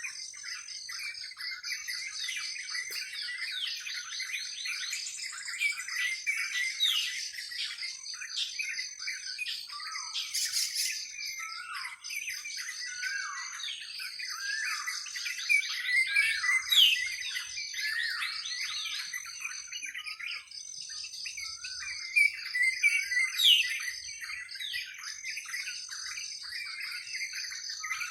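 A chorus of many birds chirping and calling at once in a forest, with quick chirps and sharp downward-sweeping whistles. Underneath runs a steady high-pitched trill. The calls are loudest around the middle and toward the end.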